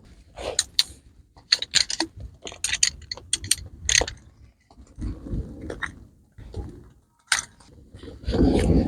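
Camping gear being handled and set out: an irregular run of sharp clicks, knocks and light rattles, with a brief rustle about five seconds in.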